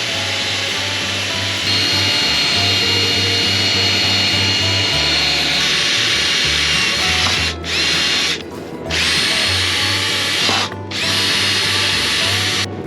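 Handheld power tool whirring in long steady runs, stopping briefly a few times in the second half and cutting off near the end, over background music.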